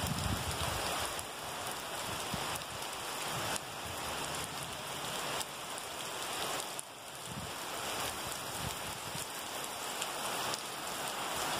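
Steady rain falling, an even hiss with scattered drop hits.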